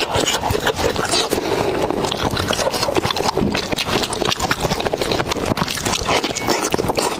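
Close-miked mouth sounds of someone eating pig's head meat: continuous wet smacking and crunching chews.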